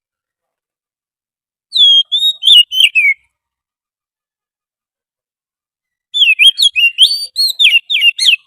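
Oriental magpie-robin song, as used for a lure call: a short run of quick, sweeping whistled notes about two seconds in, then a longer, more varied run near the end.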